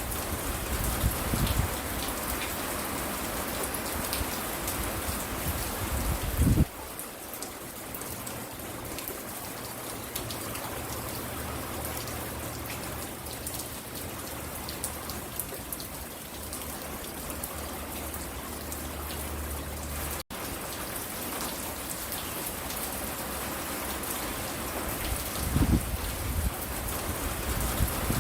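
Steady rain falling, an even hiss with scattered drips. A few short low rumbles come near the start, at about six seconds and near the end, and a low hum sits under the rain through the middle. The sound cuts out for an instant about two-thirds of the way through.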